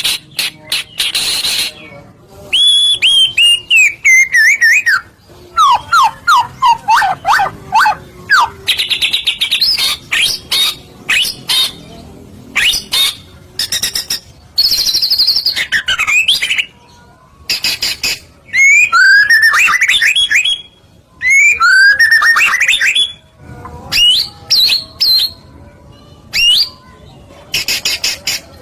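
White-rumped shama (murai batu) singing a loud, varied song: sliding whistled phrases and quick trills, alternating several times with harsh rasping chatter.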